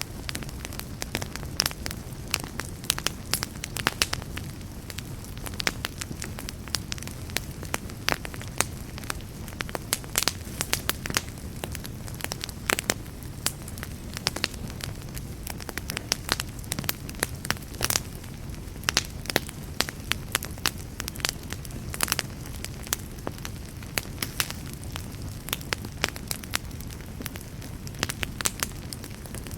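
Wood campfire burning steadily, with a low rumble of flames under frequent sharp, irregular crackles and pops.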